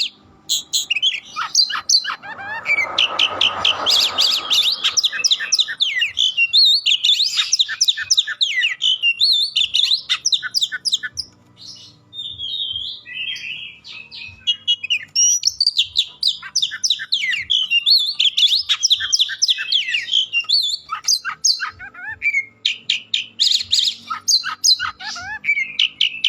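Oriental magpie-robin (kacer) singing loudly and almost without pause, in a rapid run of varied whistles, trills and chattering notes. A brief rush of noise sits under the song about two to five seconds in.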